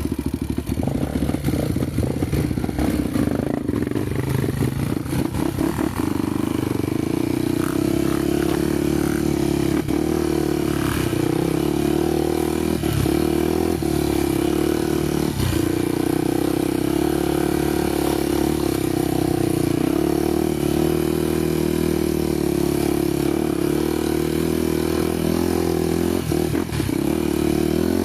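Honda motorcycle engine running under way at a fairly steady engine speed, with a few sharp knocks and clatter scattered through.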